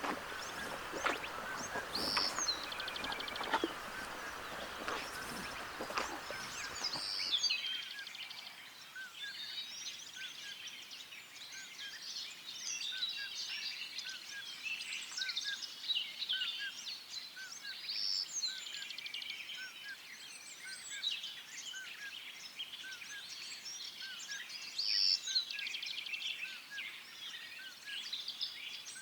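Many wild birds calling and singing at once, a dense overlapping chorus of short chirps. For the first seven seconds or so a rushing noise with scattered sharp clicks lies under the birds, then it stops abruptly and only the birdsong remains.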